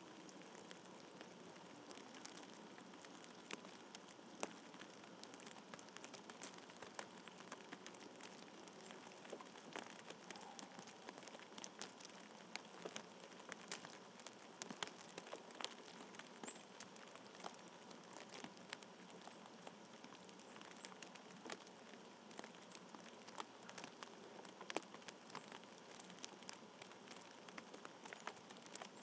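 Faint, steady outdoor hiss with a light patter of many small, irregular ticks.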